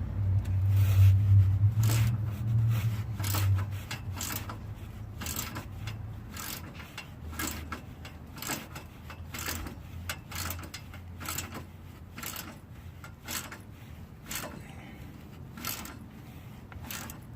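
Hand wrench turning the nuts on an exhaust pipe clamp: a long run of irregular metallic clicks and scrapes, about two or three a second. A low hum runs under them for the first few seconds and fades out.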